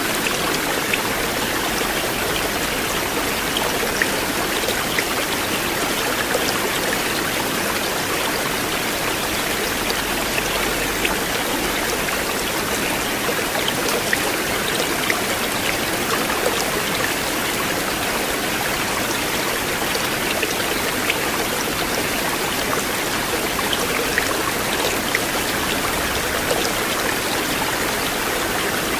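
River water flowing steadily, a continuous even rush with small scattered splashes and drips through it.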